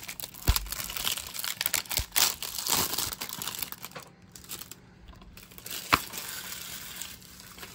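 Plastic shrink-wrap crinkling and tearing as it is pulled off a DVD case, with several sharp clicks, the loudest about half a second and six seconds in.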